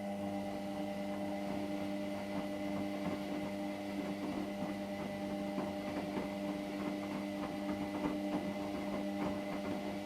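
Hotpoint WMXTF742K washing machine running mid-cycle: a steady electric motor hum of several fixed tones, with faint irregular ticking over it.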